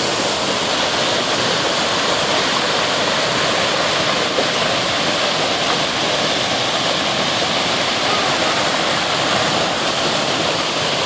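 Floodwater of a rain-swollen creek rushing high and fast, a steady, loud, unbroken roar of water.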